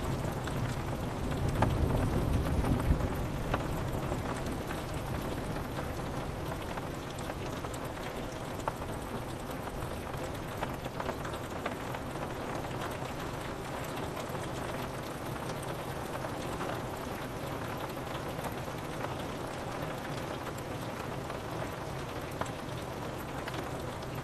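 Steady rain pattering on window glass, with scattered louder drops. A low rumble of thunder dies away over the first few seconds.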